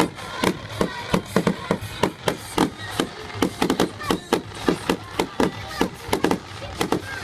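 Fireworks going off in quick, irregular bangs and crackles, several a second without a break.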